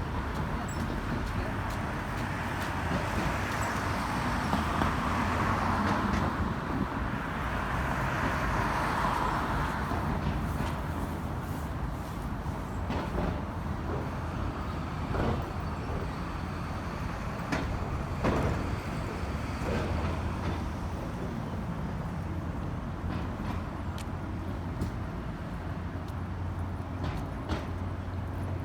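City street traffic: vehicles passing, with a steady low engine hum underneath. One vehicle swells louder and fades away a few seconds in, and scattered light knocks and clicks follow later.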